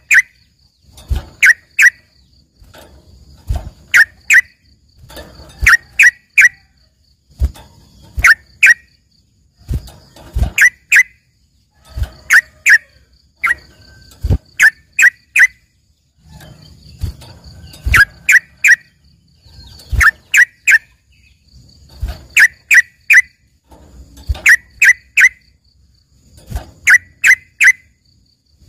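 Yellow-vented bulbul (trucukan) singing in short bursts of two to four sharp, loud notes, repeated about every two seconds. It is a bird trained with learned song, meant to sound like a cucak ijo in full song.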